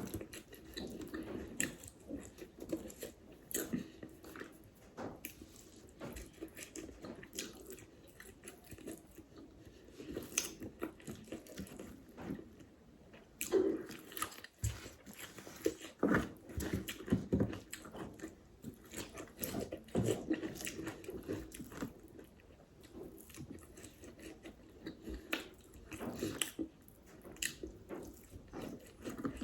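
A person chewing mouthfuls of food close to the microphone, with many irregular wet smacking clicks and occasional crunchy bites.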